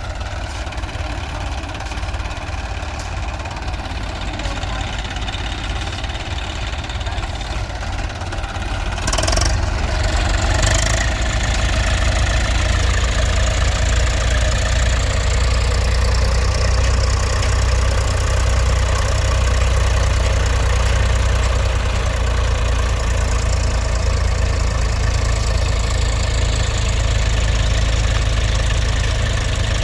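Tractor diesel engine running steadily. About nine seconds in it grows louder, with a couple of short knocks, and then holds at the higher level.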